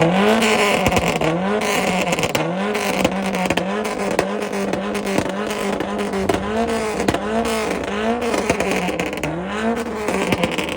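Ford Escort ZX2's four-cylinder engine being revved repeatedly on a two-step launch limiter. The pitch climbs in quick pulls about once a second, and sharp pops and crackles come from the limiter cutting the spark.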